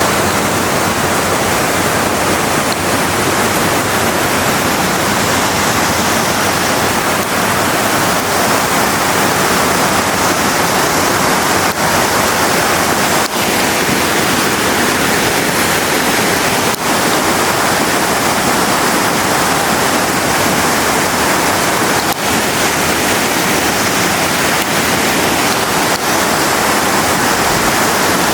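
Kanba Falls waterfall rushing steadily: a loud, continuous, even noise of falling water.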